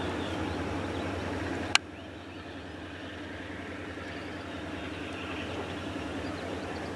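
Chihuahua–Pacific (Chepe) passenger train pulling away: the steady low rumble of its diesel locomotives and running gear. A single sharp click comes about two seconds in, after which the rumble is quieter.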